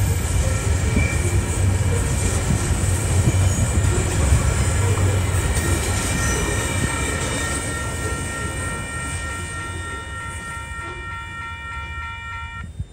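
Container wagons of a freight train rolling past, a steady rumble of wheels on rail that fades as the train draws away. From about halfway a level crossing's warning bell rings, stopping abruptly near the end.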